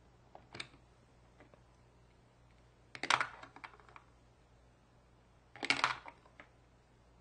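Short clusters of light plastic clicks and rattles, three times about two and a half seconds apart, from a hard plastic toy and its capsules being handled.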